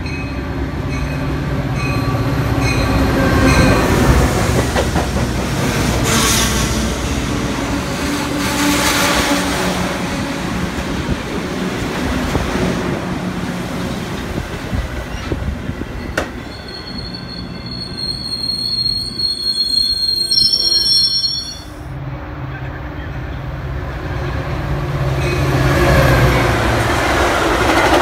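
Metra bilevel commuter trains passing close at speed: a steady rumble of wheels on rail. A bell rings about twice a second in the first few seconds, and a high, steady wheel squeal of several tones rises for several seconds past the middle.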